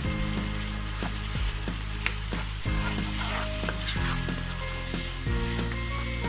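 Chopped onion, garlic paste and ground spices sizzling in hot oil in a pan as they are stirred together.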